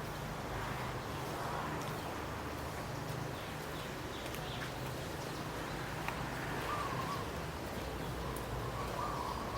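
Outdoor ambience with faint bird calls over a steady low hum, and a single small click about six seconds in.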